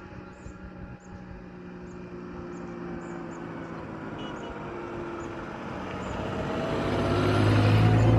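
A motor engine humming steadily and growing louder, reaching its loudest near the end, like a vehicle drawing near. Faint bird chirps sound over it in the first half.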